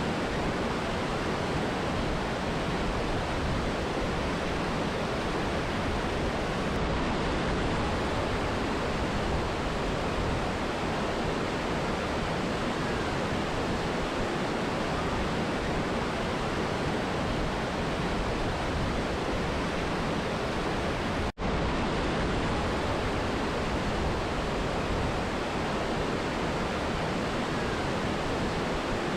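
Steady rushing water of a mountain river and waterfall, a dense even roar. It cuts out for an instant about three quarters of the way through, then resumes unchanged.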